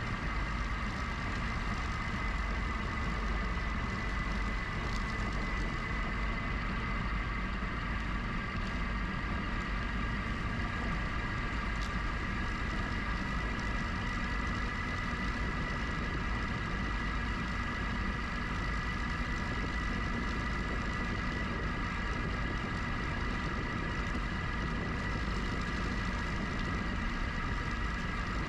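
GoCycle GX electric bike riding along at a steady pace: a low rumble of wind and tyres, with an even high whine over it.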